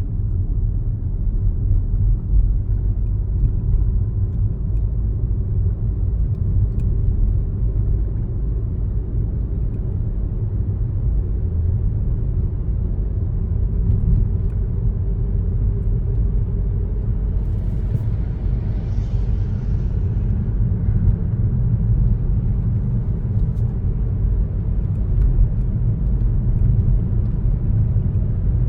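A car driving along a road: a steady low rumble of tyres and engine, with a brief higher hiss about eighteen seconds in.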